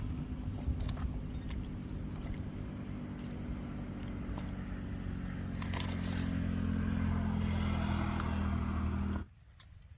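An engine running steadily with a low hum, with scattered clicks and knocks over it; it cuts off suddenly about nine seconds in.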